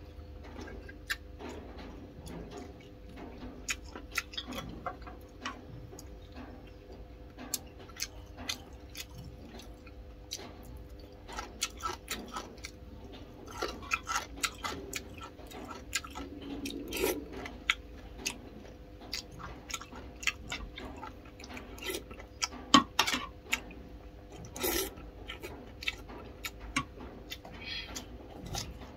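A person chewing food close to the microphone: a run of wet mouth clicks and smacks, with a few louder clicks in the second half, over a faint steady hum.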